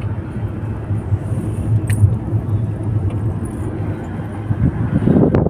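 Moving car heard from inside the cabin: a steady low engine and road drone with tyre noise. About five seconds in, a louder sound of a different kind rises over it.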